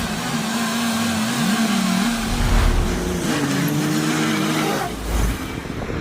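Diesel engine of heavy earthmoving machinery running, its pitch rising and falling as the throttle changes. The engine tone drops away near the end, leaving a rushing noise.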